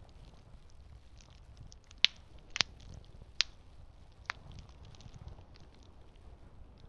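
Campfire burning with a faint, irregular crackle over a low steady rumble, broken by four sharp pops of burning wood spread across the middle of the clip.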